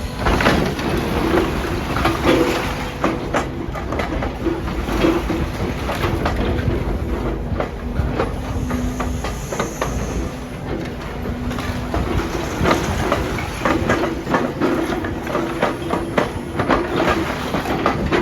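Demolition machinery at work: a heavy machine's engine and hydraulics run steadily under a continual irregular clatter of knocks and crunches, the sound of metal and concrete debris being worked.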